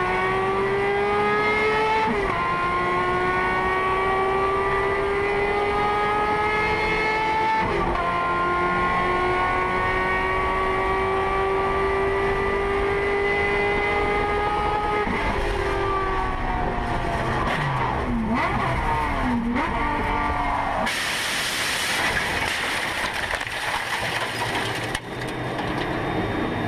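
Racing car engine at high revs, rising in pitch through each gear with upshifts about two, eight and fifteen seconds in, then dropping twice as it slows. From about 21 seconds in a louder rushing noise takes over.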